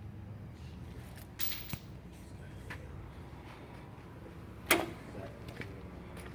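A few brief knocks and a scrape over a low steady hum, the loudest a sharp knock with a short ring near the end.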